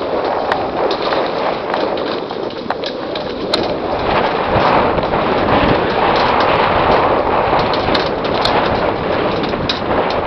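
Downhill mountain bike riding down a dirt trail: a steady rush of tyres and air with frequent sharp clicks and knocks as the bike rattles over the ground, growing louder about four seconds in.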